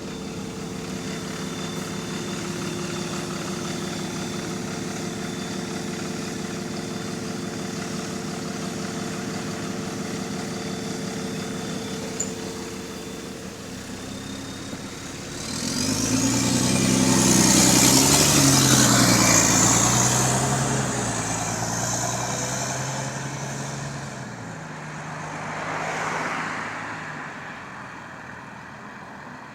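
Diesel engine of the GAL E210 double-decker bus idling steadily, then pulling away at about the midpoint: the engine note climbs with a high rising whine, steps through gear changes, and eases off, with a smaller surge near the end. The bus has a leaking exhaust.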